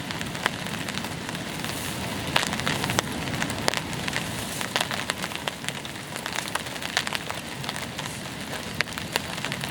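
Steady rain falling, with scattered sharp drops tapping at irregular intervals.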